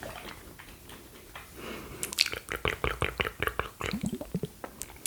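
Close-miked sticky, wet mouth sounds: soft scattered clicks at first, then from about two seconds in a quick run of sharp wet clicks and pops.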